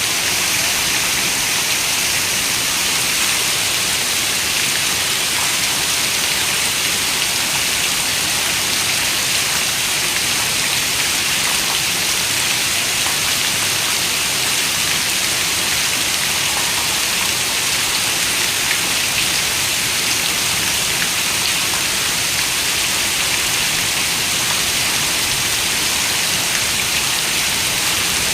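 Steady rain falling: an even, unbroken hiss, brightest in the upper range, with faint scattered drop ticks.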